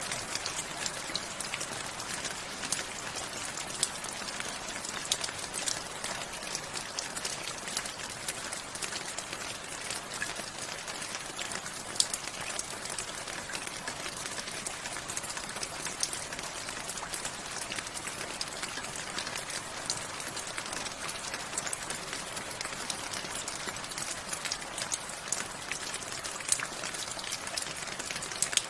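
Steady rainfall: an even hiss of rain with many separate drops ticking sharply on a hard surface.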